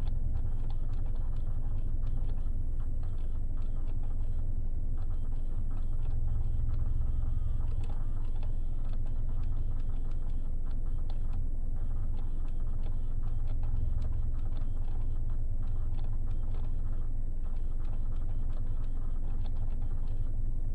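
A steady low car rumble under faint, irregular clicking and crackling: the strange noise a 2016 Hyundai Elantra makes from its front vents or under the hood.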